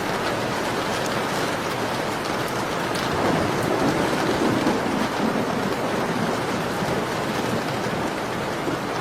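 Steady rain, with a low rumble swelling about three seconds in and dying away by about six seconds.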